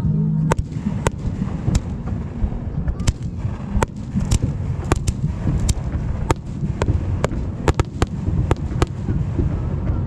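Fireworks going off: a quick series of sharp cracks and bangs, about two a second after the first few seconds, over a continuous low rumble.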